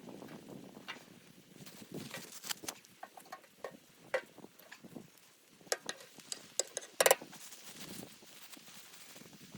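Scattered small clicks, taps and crackles at an irregular pace, with a sharp double click about seven seconds in.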